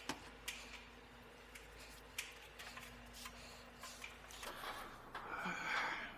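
Light clicks and taps from tools and parts being handled during pipe work, then a louder scraping, rustling noise lasting over a second near the end. A steady low hum in the background stops about four and a half seconds in.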